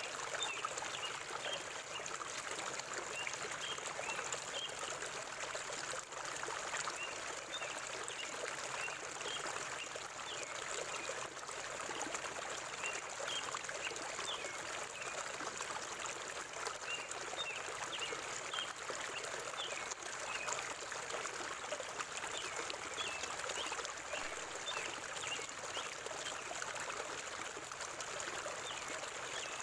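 Forest river water flowing and trickling steadily.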